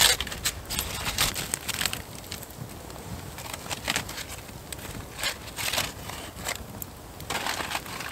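Campfire crackling, with irregular sharp pops and short bursts of crackle over a low steady hiss.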